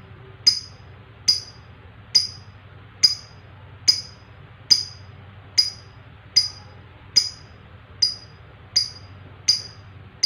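Lovebird giving short, sharp, high chirps, one single note a little under every second, about a dozen in a row.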